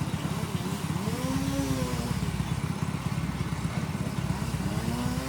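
A small engine running steadily at an even speed, with a fast firing beat. Twice, a brief pitched sound rises and falls over it.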